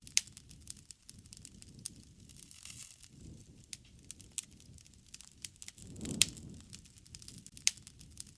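Wood fire crackling, with sharp pops scattered through it (a few loud ones, near the start, about two seconds in and twice near the end) over a soft low rush of flames that swells and fades.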